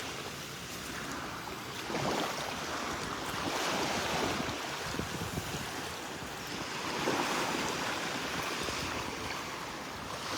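Gulf of Mexico surf: waves washing up the beach on the incoming tide, rising and falling every few seconds, with wind rumbling on the microphone.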